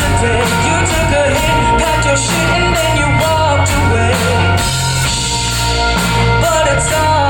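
Rock band playing live: a lead singer's voice over guitar, bass and a steady drum beat.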